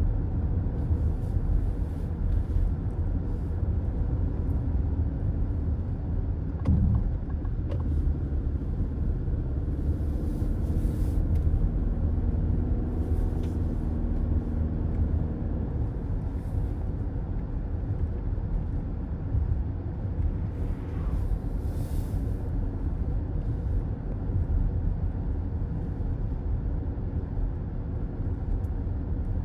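Road noise of a car driving at highway speed: a steady low rumble of tyres and engine, with a short bump about seven seconds in and a few brief rising hisses of air.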